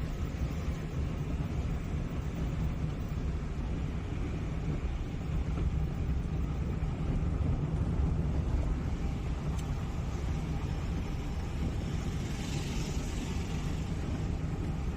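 Steady low rumble of a vehicle driving along a highway, with a brief swell of hiss about twelve seconds in.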